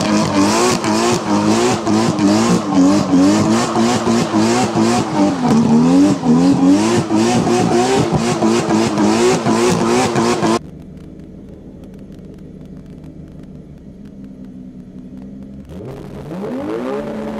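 A tuned car engine revving hard, its pitch swinging up and down over and over with a rapid crackle on top. About ten and a half seconds in it cuts off suddenly to a much quieter, steady low engine sound, and near the end an engine revs up in a rising sweep.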